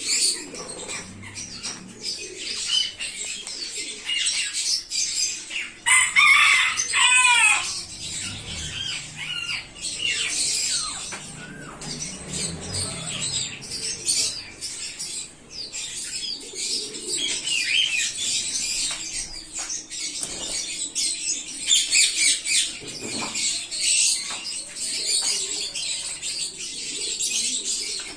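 A colony of budgerigars chattering with dense, continuous high-pitched chirps and warbles, with a louder run of calls about six to eight seconds in.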